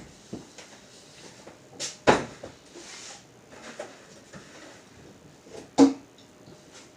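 Kitchen clatter: scattered knocks and clunks of things being handled, with two louder clunks about two seconds in and near six seconds.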